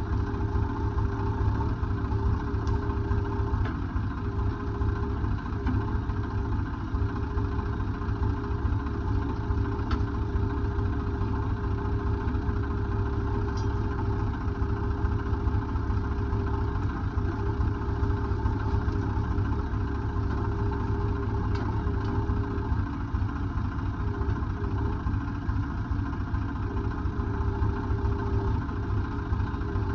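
Diesel engine running steadily at a low idle, with a few faint clicks.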